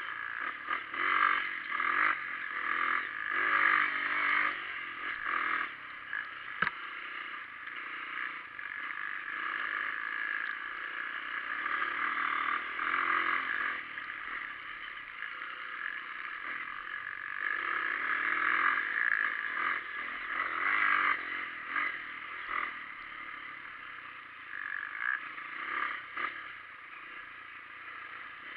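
Off-road dirt bike engine running, heard from on the bike itself, swelling and easing repeatedly as the throttle is rolled on and off over rough grassy ground. There is a sharp knock about six and a half seconds in.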